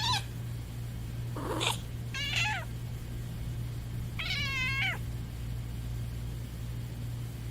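A domestic cat meowing several times in separate calls, the last one about four seconds in the longest, drawn out for nearly a second.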